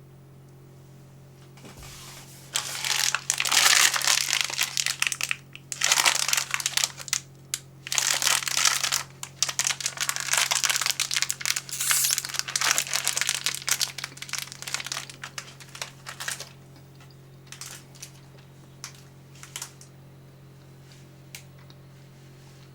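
Snack packaging crinkling and crackling as it is handled and opened, in several dense bursts for about fourteen seconds, then a few scattered rustles and clicks near the end.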